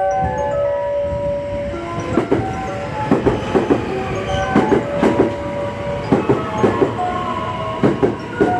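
Electric train's wheels clacking over rail joints, a steady run of sharp beats, often in pairs, that starts about two seconds in as the train moves along the platform. A station chime melody of clear stepped tones plays over it.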